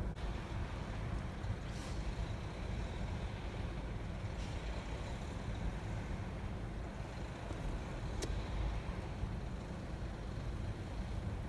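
Steady low rumble of an idling vehicle engine, with a few faint ticks and one short sharp click about eight seconds in.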